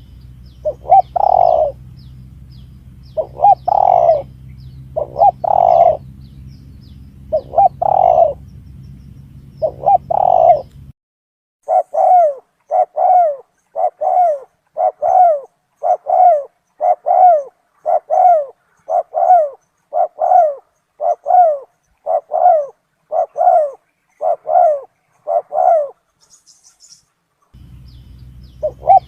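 Recorded spotted dove calls played as a bird-hunting lure. First come cooing phrases every couple of seconds over a low steady hum. Then, partway through, a quicker run of single coos about one a second over a quiet background, with the hum and a coo phrase returning near the end.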